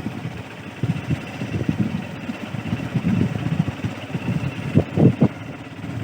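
A motor vehicle running on the move, with uneven low rumbling that swells and fades and a few stronger pulses near the end.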